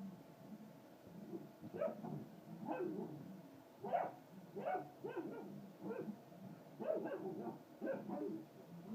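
A dog barking in a series of short barks, roughly one a second, starting about two seconds in.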